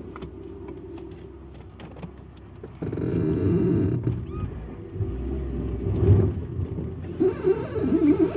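Front suspension of a classic VAZ (Lada) creaking and squeaking irregularly as the car moves and the steering is turned, louder from about three seconds in. The owner traced the squeak to a worn lower ball joint.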